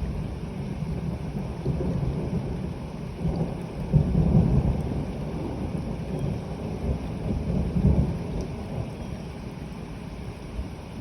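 A thunder rumble over steady rain, swelling to its loudest about four seconds in, peaking again near eight seconds, then dying away.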